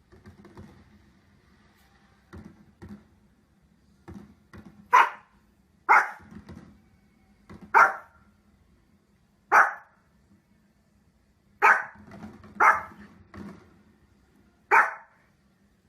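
A dog barking: seven loud single barks, one to two seconds apart, starting about five seconds in, after a few fainter sounds.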